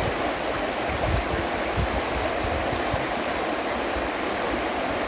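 Steady rushing of a stream flowing over rocks, with a few low irregular thumps underneath.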